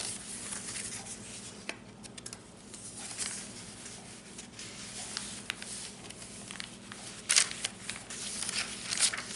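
Paper and card rustling and sliding as the pages, envelopes and pockets of a handmade junk journal are handled and turned, with a couple of louder rustles near the end.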